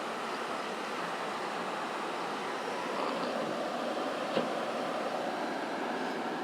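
Steady rushing of wind blowing through a snowstorm, with one short knock about four seconds in.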